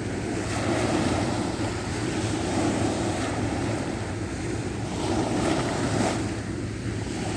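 Sea waves washing onto the shore, a continuous surf noise that swells and eases every second or two, with wind buffeting the microphone and a steady low hum underneath.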